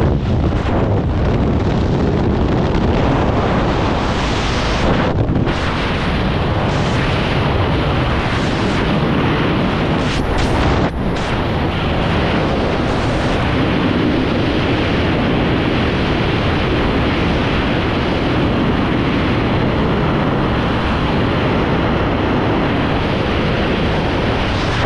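Loud, steady wind rushing over the microphone during a skydiving freefall, with brief dips about five and eleven seconds in.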